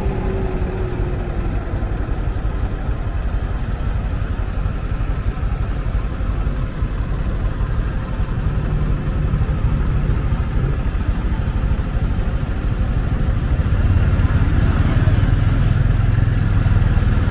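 Motorcycle taxi under way: the engine runs with heavy wind rumble on the microphone and surrounding traffic. Its note falls just after the start as the bike slows, and the low rumble grows louder near the end.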